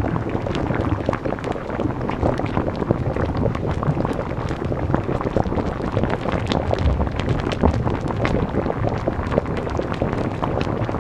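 A loud, steady rushing roar with many sharp cracks and knocks all through it, like storm wind buffeting a microphone over churning water.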